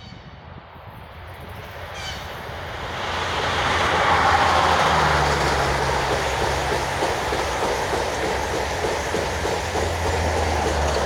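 EP20 electric locomotive hauling a Strizh passenger train approaching and passing close by: a rising rush of running noise that peaks about four seconds in, then carries on as the coaches roll past with steady wheel clatter over the rail joints and a low hum underneath.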